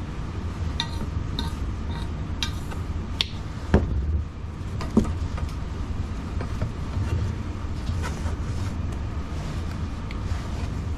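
Light metallic clinks and knocks of tools and parts being handled, about half a dozen in the first five seconds, over a steady low hum.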